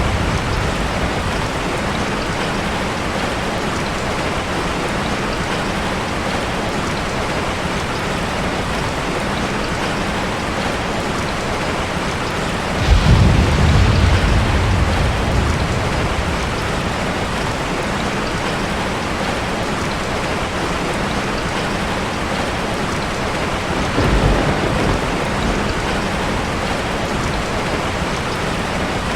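Steady rain falling, with a low roll of thunder about halfway through and a smaller one later on.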